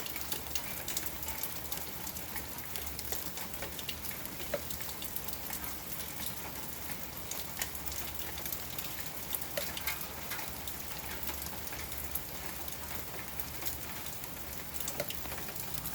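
Steady light rain falling, a constant hiss scattered with the small clicks of individual drops striking surfaces.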